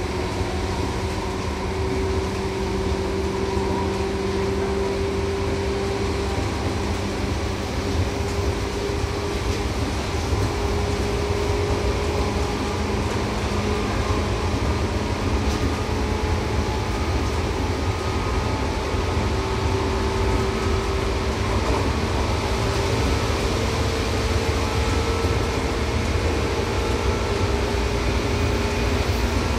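Seibu 2000 series electric train running, heard from inside the car: a steady low rumble of wheels on track, with a motor hum whose pitch rises slowly.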